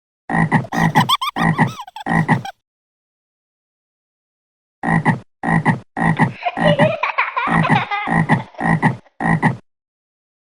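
Frog croaking sound effect in a cartoon soundtrack: a run of four rhythmic croaks, a pause, then about eight more, with a second overlapping croaking voice partway through the second run.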